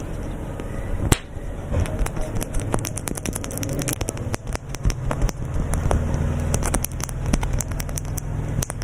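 Close-miked ASMR trigger sounds: many quick, irregular clicks and scratches over a steady low rumble.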